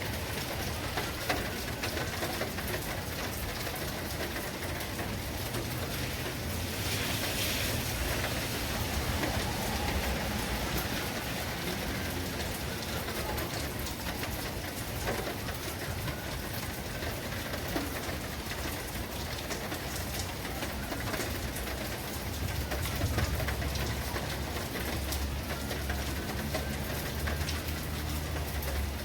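Steady, heavy rain falling on surfaces, with a brief surge of hiss about a quarter of the way in. A low rumble builds near the end.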